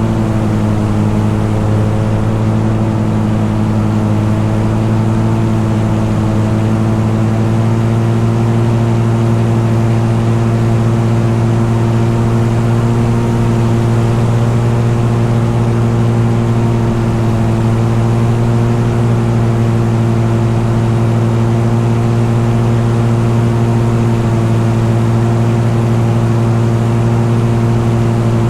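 An engine running steadily at a constant speed, a loud, even drone with a strong low hum that holds the same pitch throughout.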